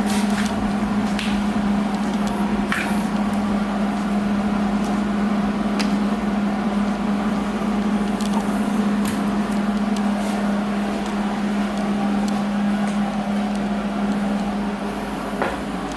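A shop tool running steadily with a strong even hum and a few scattered sharp ticks, easing off slightly near the end.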